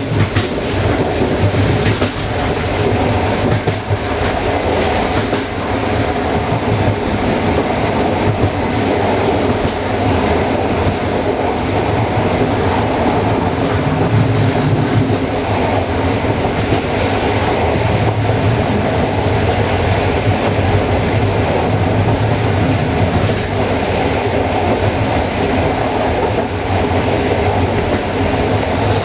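Passenger train rolling along at speed: a steady rumble of carriage wheels on the rails, with occasional sharp clicks as the wheels cross rail joints.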